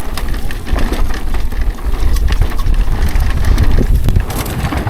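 Mountain bike being ridden fast: wind buffeting the on-bike or helmet camera microphone in a heavy, uneven rumble, with scattered clicks and rattles from the bike over the bumps.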